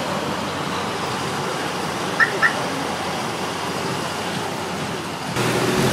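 Steady outdoor background noise with two short high chirps about two seconds in; near the end a low steady hum starts suddenly.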